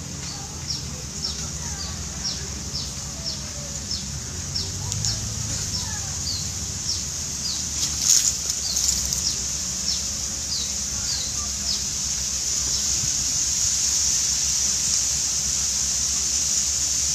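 An animal's short, high-pitched chirps repeating about twice a second, each falling in pitch. The chirps thin out after about twelve seconds as a steady hiss grows louder.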